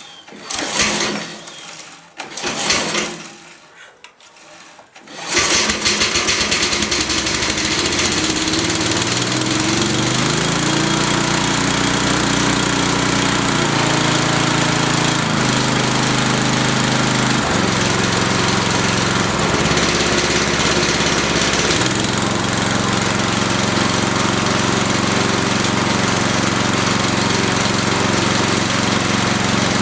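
Briggs & Stratton 10.5 hp I/C single-cylinder engine on a DR brush mower, with a few short bursts before it catches about five seconds in and then runs. Its speed shifts up and down several times over the next fifteen seconds or so, then holds steady.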